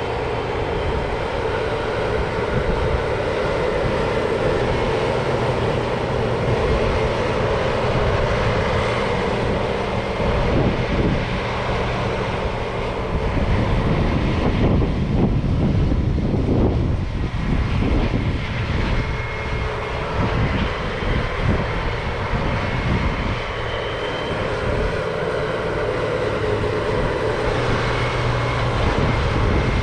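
Heavy diesel farm machinery running steadily under load during silage harvest, a continuous engine drone that shifts in tone about halfway through.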